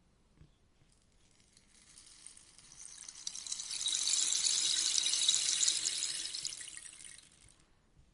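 Rainstick turned over once: its fill trickles down the tube in a fine rain-like patter that swells to a peak about halfway through, then fades away near the end.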